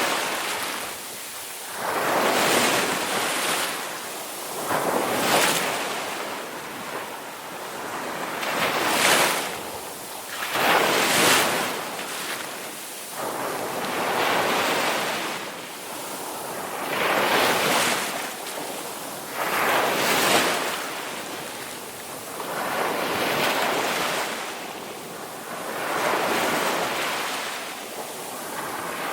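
Ocean waves rolling in and washing on the shore, the surf swelling and ebbing about every two to three seconds.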